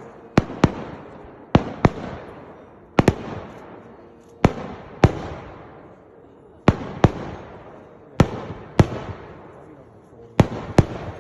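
Fireworks going off: about fifteen sharp bangs, mostly in quick pairs repeating every second or two, each one trailing off slowly.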